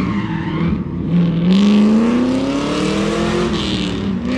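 A car engine accelerating past, its pitch climbing steadily from about a second in, over tyre and road noise.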